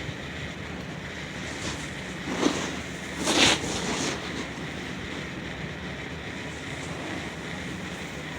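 Steady outdoor ambient noise, with two short swells about two and a half and three and a half seconds in.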